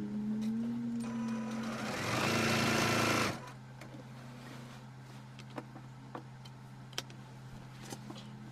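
An electric sewing machine runs and stitches at a steady speed for about three seconds, then stops. After that comes a quiet low steady hum with a few small clicks.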